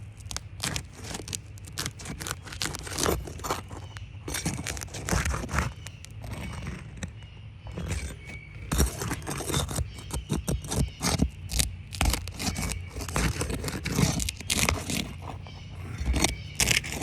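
A hand tool scraping and knocking against asphalt roof shingles as a stuck shingle is pried at to loosen it. The sound is a quick, irregular run of short sharp scrapes and clicks.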